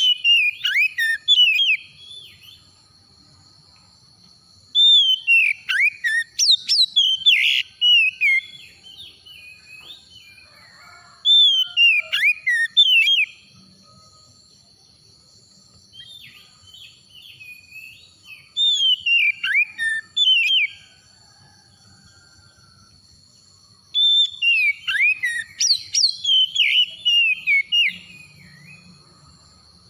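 Oriental magpie-robin (kacer) singing loud, rapidly gliding whistled phrases in about five bursts a few seconds apart, over a steady high tone.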